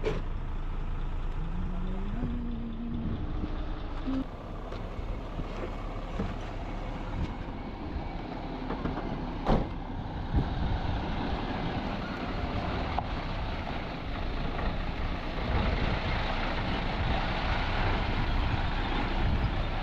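A heavy vehicle engine running steadily. A short rising tone comes about two seconds in, and two sharp knocks land near the middle.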